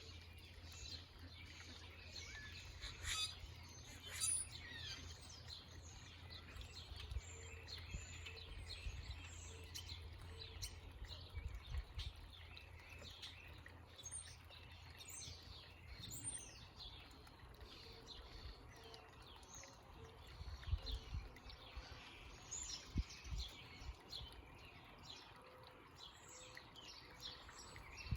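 Several small songbirds chirping and twittering in quick, overlapping calls over a low rumble.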